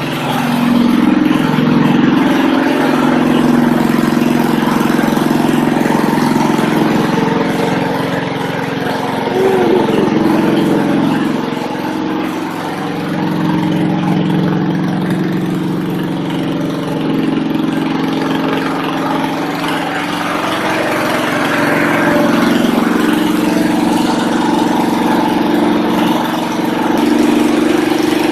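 Old 1970 Ariens 5 hp snowblower engine running steadily, its speed dipping and rising again a few times.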